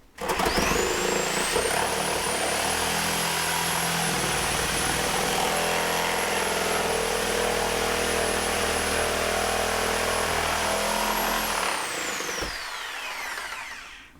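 Reciprocating saw (Sawzall) cutting through wall framing. Its motor whine rises quickly as it starts, runs steadily for about ten seconds, then falls away over the last couple of seconds as the saw winds down.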